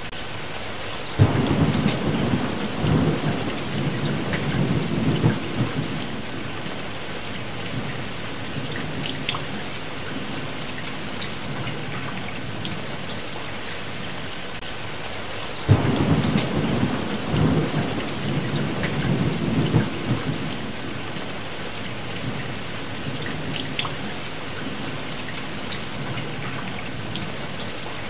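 Steady rain with two rolls of thunder. Each roll starts suddenly and rumbles for several seconds, the first about a second in and the second about halfway through.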